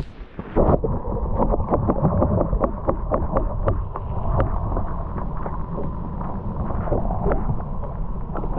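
Muffled rumble and frequent knocks of a camera being carried on foot, with wind on the microphone.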